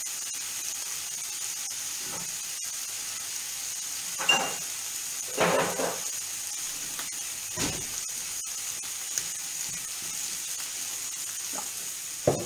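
Boiled octopus tentacles frying in oil and garlic in a pan, with a steady sizzle. A few brief clinks and knocks come through it about four, five and a half and seven and a half seconds in.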